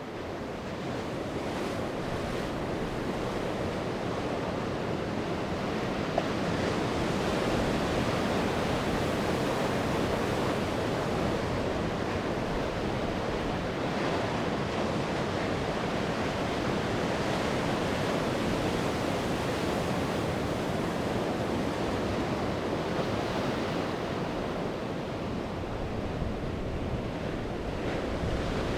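Sea waves breaking and washing onto the shore as continuous surf. It builds over the first several seconds, then holds steady.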